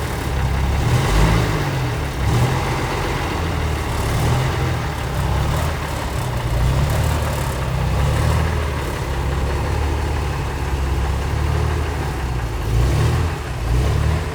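Military 2½-ton (deuce-and-a-half) truck engine running after being started on substitute batteries, its revs rising and falling.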